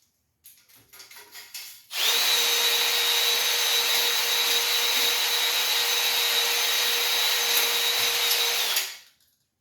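Electric drill spinning a cylinder hone in an engine bore, honing the cylinder wall. A few light scrapes come first, then the drill runs steadily with a constant whine for about seven seconds and stops abruptly near the end.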